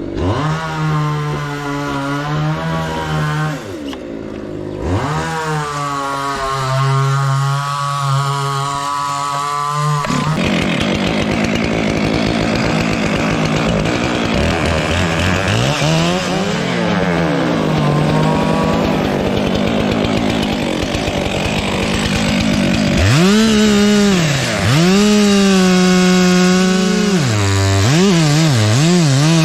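Two-stroke chainsaw revving up and down, then cutting steadily through aini wood under load for about thirteen seconds in the middle, before revving again in bursts with quick throttle blips near the end.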